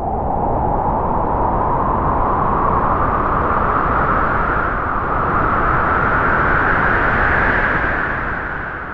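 A loud, continuous rushing noise, its brightest part rising slowly in pitch, fading away near the end.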